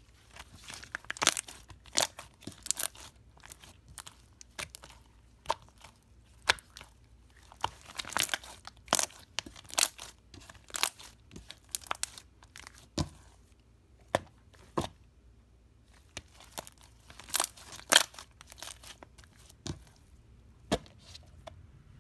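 Slime worked by hand: irregular sharp pops and crackles as it is squeezed, stretched and torn, with a few louder snaps.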